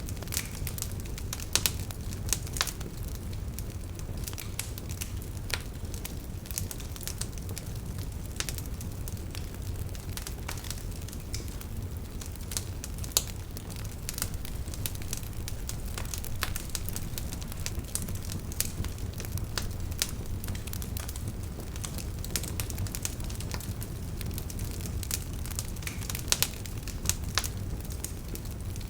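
Wood campfire crackling, with frequent sharp irregular pops and snaps, over a steady low rush of running river water.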